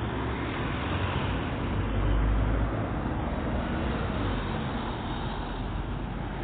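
Steady outdoor background rumble picked up by a phone's microphone, the kind of noise that traffic and wind make, with no clear single event.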